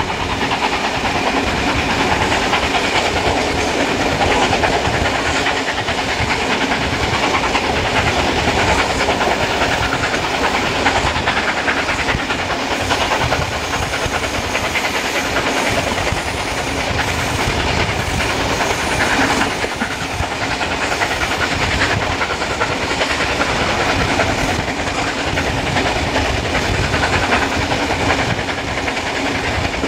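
A steam-hauled passenger train heard from an open carriage window: the carriage wheels rumble and clatter over the rail joints under a steady wash of wind and track noise. Steam locomotive 3801 works at the head of the train, its steam hiss mixed into the noise.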